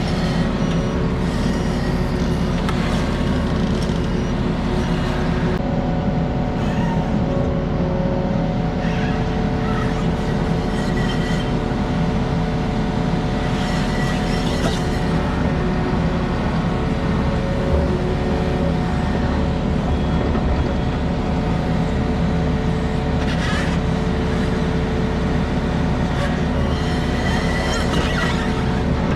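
Takeuchi skid steer's diesel engine running steadily at idle, with a steady hydraulic whine over it. A few short metallic clanks come through, about five times.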